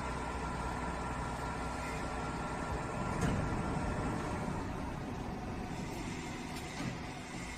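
Factory machinery running with a steady hum and several constant tones. About three seconds in there is a sharp click and a louder noisy stretch lasting a second or so, with another click near the end.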